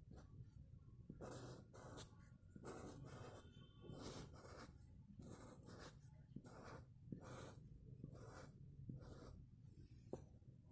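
Faint scratching strokes of a kolam being drawn by hand on the floor, a short stroke every half second to a second, over a low hum.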